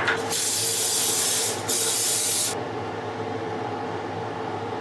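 Aerosol cooking spray hissing out in two bursts of about a second each, with a short break between, as a baking pan is greased.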